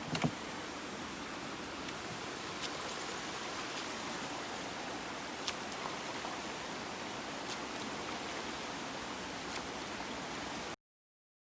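Steady rush of flowing snowmelt floodwater, with two short thumps right at the start and a few faint ticks. The sound cuts off abruptly near the end.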